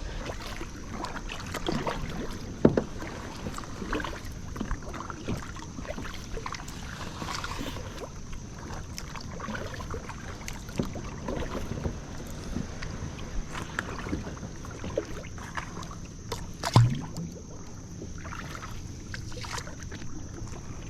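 Kayak moving across the water: sloshing and splashing of water around the hull, with scattered knocks against the hull and one louder thump about 17 seconds in.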